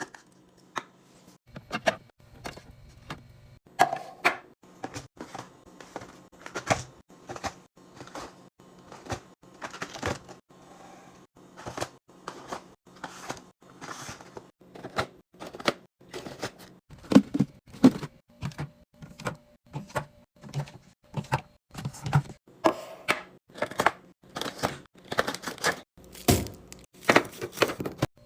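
Food packages and containers being handled and set down during a fridge restock: a steady run of clicks, taps and light clunks, one or two a second, getting louder and busier about halfway through.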